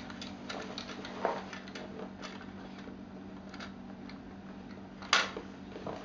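Hard plastic Lego Technic parts clicking and clacking a few times as they are handled, with one louder clack about five seconds in, over a steady low hum.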